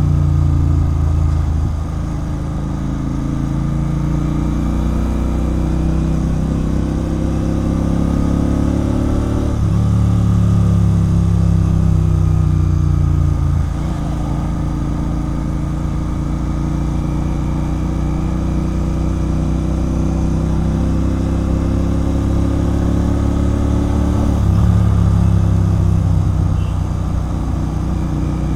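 Royal Enfield Continental GT 650's parallel-twin engine running through a loud aftermarket Red Rooster Performance exhaust while riding. The engine note climbs slowly, drops sharply about 14 seconds in, and picks up again near the end.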